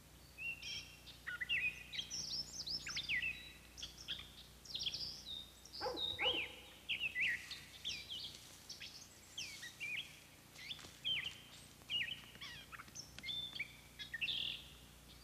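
Songbirds calling: many short chirps and whistled notes, one after another, fairly quiet.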